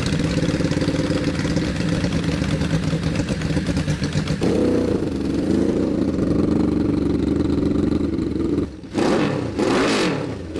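Minibike's small engine running, its pitch stepping up about four seconds in and holding at higher revs. Near the end it drops off briefly, then revs up and down in quick rises and falls.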